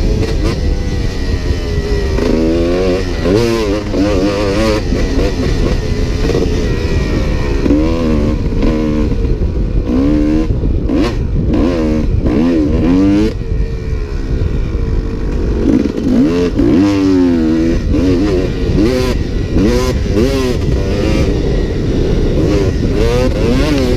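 Dirt bike engine being ridden hard, the throttle opened and shut again and again so its pitch climbs and drops every second or two, over a constant low rumble.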